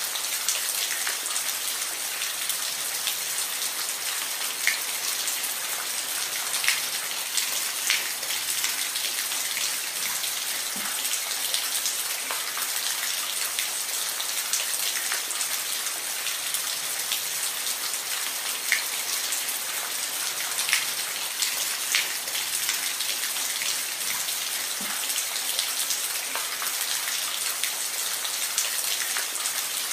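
Steady rain falling, with a constant hiss and individual drops ticking sharply here and there.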